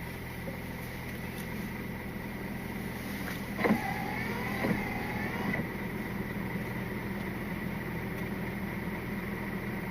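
Scania R450 lorry's diesel engine running steadily, heard inside the cab, with a constant faint high whine. About four seconds in come two sharp clicks a second apart, with a short squeak between them.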